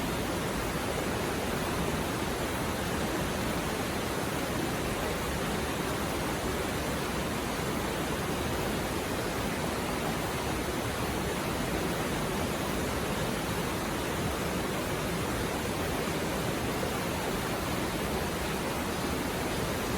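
Mountain stream flowing over rocks: a steady rush of water that does not change.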